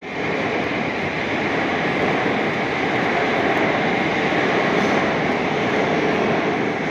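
Metro train in motion: a steady, loud rush of wheel and running noise.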